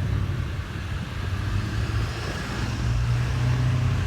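A car engine running close by, a steady low rumble that swells and eases, over street traffic noise.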